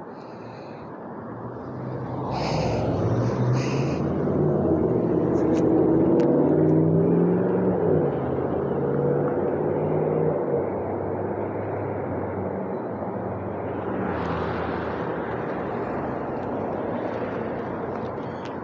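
Motor vehicle traffic passing: engine and tyre noise swells to a peak about six seconds in and fades, and a second vehicle swells up near the end. Two short high-pitched sounds come early in the first pass.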